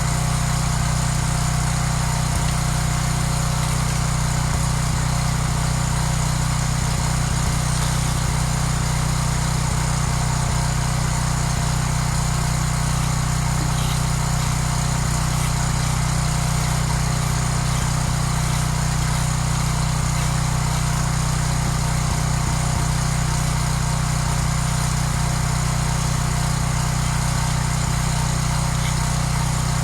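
A small engine running steadily at constant speed, with no change in pitch or load.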